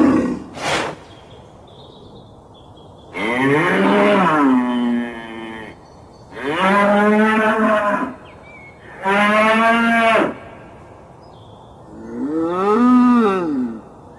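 Cattle mooing: four long moos, each rising and then falling in pitch, a second or so apart. Two brief sharp sounds come at the very start.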